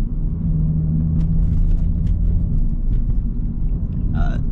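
Audi S5 engine running, heard inside the cabin as a steady low rumble with a steady hum, a few faint ticks over it.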